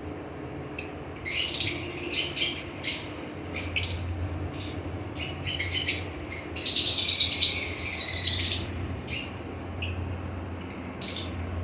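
Parrots calling: a string of short, sharp squawks and chirps, with a denser run of chattering calls lasting about two seconds, starting roughly seven seconds in. A faint low hum runs underneath.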